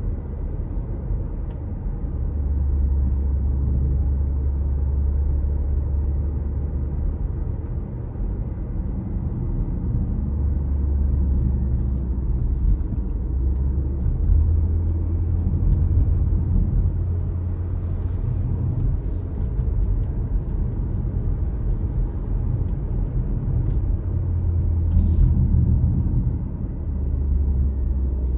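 Car driving along a road: a steady low rumble of engine and tyres that swells and eases a few times, with a few brief sharp ticks.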